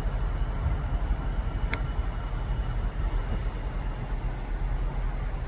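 Thameslink Class 700 electric multiple unit running in, a steady low rumble with a faint steady whine above it. One sharp click about two seconds in.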